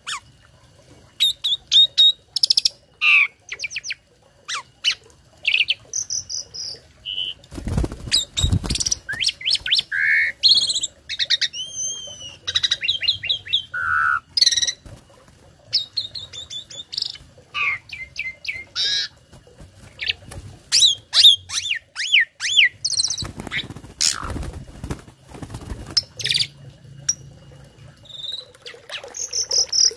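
A tame jalak starling singing a fast, varied string of whistles, chirps, rising and falling glides and short trills, its song full of learned fill phrases. Two harsh, noisy bursts come about 8 and 24 seconds in.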